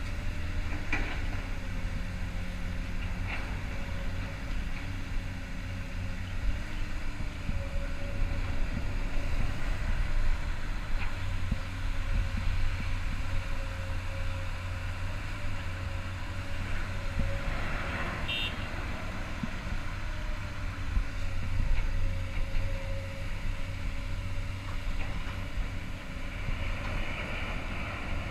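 Komatsu PC200-8 long-reach excavator's diesel engine running steadily, a low drone with a faint steady tone above it.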